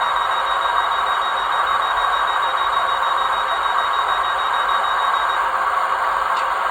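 Hornby OO gauge Class 800 model train with DCC sound running steadily: an even rushing drone from the sound decoder mixed with running noise on the track, with a thin high whine that stops about five seconds in and a short click near the end.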